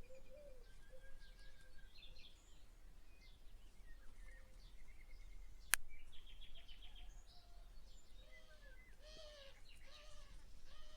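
Faint birdsong: several birds chirping and trilling, with repeated short, lower rising-and-falling calls in the second half. A single sharp click about six seconds in.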